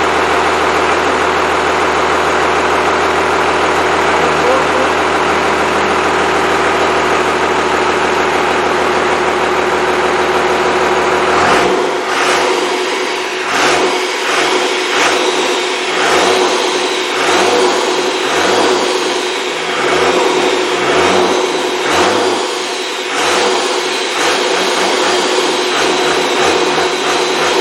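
Freshly rebuilt Cummins 5.9L 12-valve diesel engine running steadily. About eleven seconds in the sound changes: the deep part drops away and it swells and fades about once a second.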